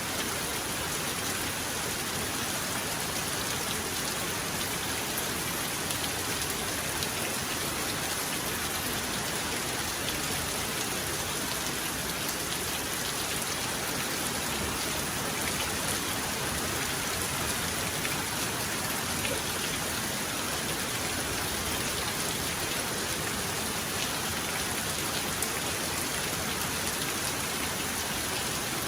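Heavy rain falling steadily, an even hiss of drops hitting a surface, with no thunder.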